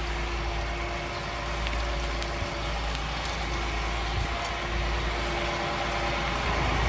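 A vehicle engine running steadily with a constant hum and a heavy low rumble.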